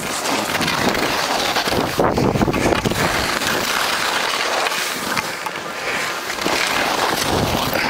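Skis hissing and scraping over soft new snow, with wind rushing over the microphone, while skiing downhill; an uneven, loud rushing noise that swells and dips.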